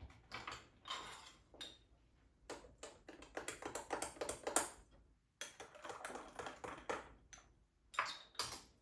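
Glass and ice clinking: quick runs of small clicks and taps, with a short break about five seconds in.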